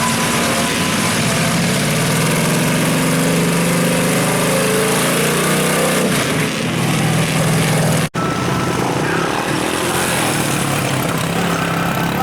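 Engine of a mud-bogging vehicle running hard, its pitch held fairly steady for the first six seconds and then changing. The sound drops out completely for an instant about eight seconds in.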